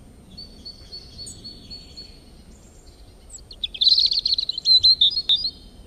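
Songbirds chirping: a run of quick, high, evenly repeated chirps, then louder rapid trills from about three and a half seconds in.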